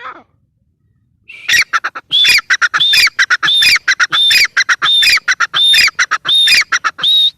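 Gray francolin calling: a loud, harsh call phrase repeated evenly about three times every two seconds, each phrase with a held high note and quick falling notes. The run starts about a second in, after a brief falling squeak at the very start.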